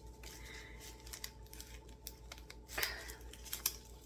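Plastic packaging of a pair of reading glasses being picked and pulled at, crinkling and clicking in scattered bursts with a louder crackle near the end, as it resists opening.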